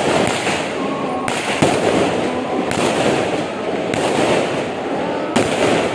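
Firecrackers and fireworks going off in a dense, continuous crackle, with sharper, louder bangs about a second and a half in and again near the end.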